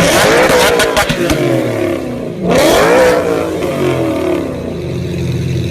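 Tuned engine revved hard through a loud exhaust, with sharp pops and cracks as the revs drop off. A second sharp rev comes about two and a half seconds in, then the engine winds back down.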